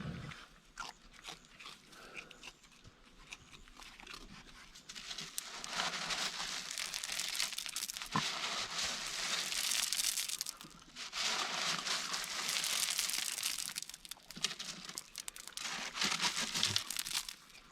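Crinkling and crunching close to the microphone, typical of raccoons rummaging in and eating dry food such as Fruit Loops and corn at a feeder. It comes in two long stretches, with a short pause about halfway through.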